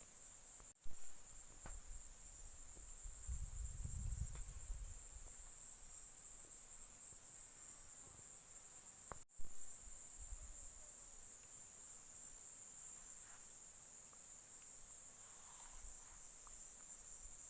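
Steady, high-pitched chirring of insects, typical of crickets, with a low rumble around four seconds in and again about ten seconds in. The sound cuts out for an instant twice.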